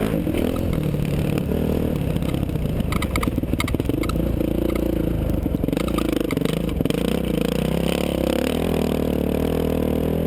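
Motocross dirt bike engine running and revving up and down as it is ridden, with a few sharp knocks and rattles in the middle.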